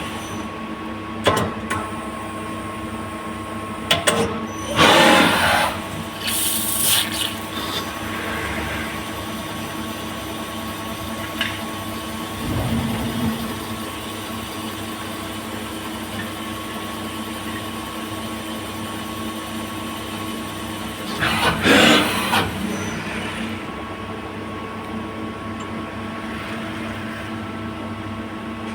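CNC lathe running with a steady machine hum, broken by a few short, loud hissing bursts, the longest about 5 seconds in and about 22 seconds in.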